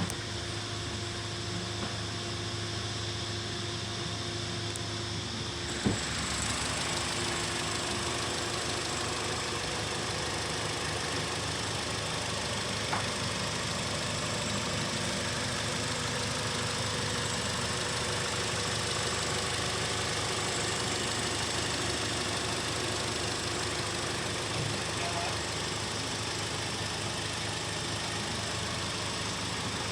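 VW Golf engine idling steadily. About six seconds in there is a click, and the running gets slightly louder and brighter, then holds steady.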